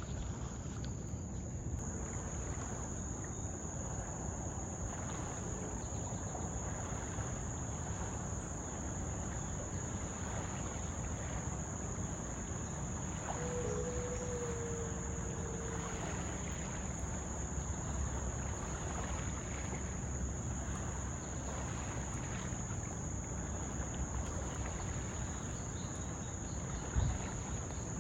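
Insects droning in one steady high-pitched tone over a low rumble of wind or distant river noise. A short pitched call sounds about halfway through, and there is a single thump near the end.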